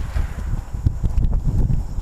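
Wind buffeting the microphone of a camera on a moving bicycle: a low, gusty rumble that swells and drops constantly, with a few faint ticks on top.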